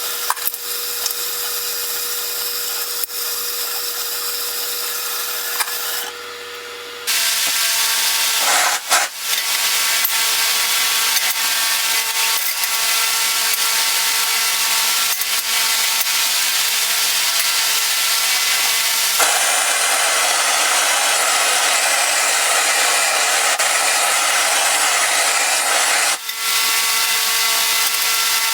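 Power tool running steadily with a motor whine, broken into several segments that change abruptly as different stretches of shop work follow one another.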